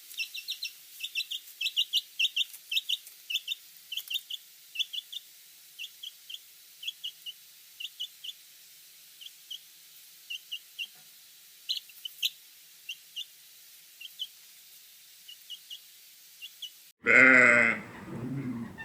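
Young chicks peeping: many short, high-pitched peeps, several a second at first and thinning out later. Near the end, a sheep gives a loud bleat.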